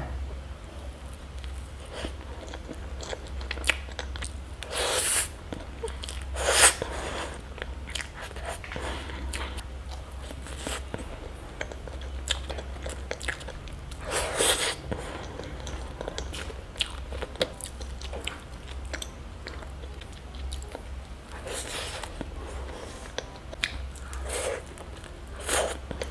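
Close-miked ASMR eating of chocolate: steady chewing and mouth clicks, broken by a handful of loud, crunchy bites a few seconds apart.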